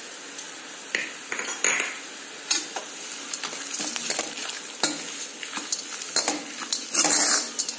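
Onions, grated coconut and roasted peanuts sizzling in oil in a hammered metal kadhai while a steel spoon stirs them. The spoon scrapes against the pan several times, a longer scrape near the end.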